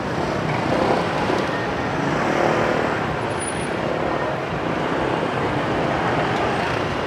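Busy street traffic: motorcycle and car engines running by in a steady wash of road noise. One engine swells louder about two and a half seconds in.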